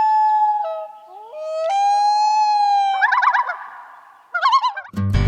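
Canine howling: two long howls, each rising in steps to a held note, then quick warbling yips twice near the end.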